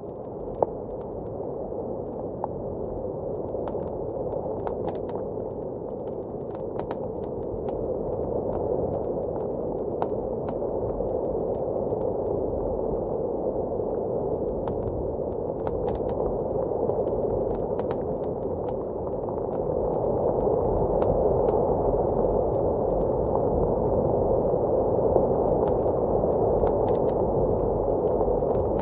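Wood fire crackling with scattered sharp pops over a steady, low rush of blizzard wind. The wind grows louder about two-thirds of the way through.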